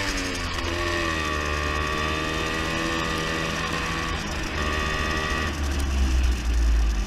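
Beta Synt trials bike's two-stroke engine running at low revs; its note dips and recovers about a second in and shifts briefly around four seconds in, and the low rumble grows louder near the end.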